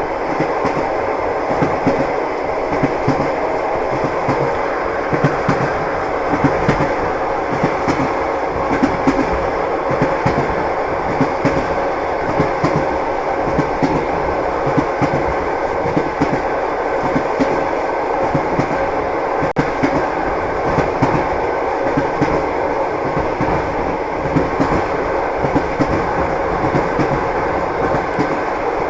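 Train wheels clattering on the rails as a railway car rolls along: a steady rolling rumble with frequent short clacks from the wheels over the track.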